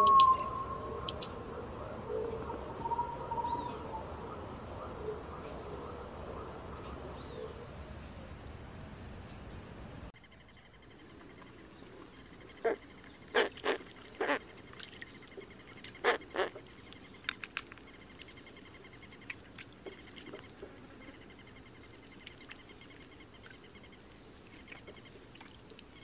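Wildlife ambience: a steady, high-pitched insect chorus with a few short bird calls. About ten seconds in it drops abruptly to a quieter scene with a faint insect trill and a run of sharp clicks.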